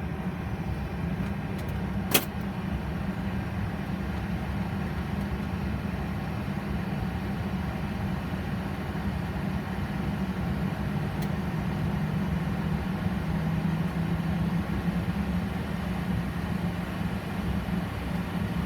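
Boeing 737's two engines idling after start, a steady hum heard from inside the cockpit with the air-conditioning packs running. A single sharp click about two seconds in.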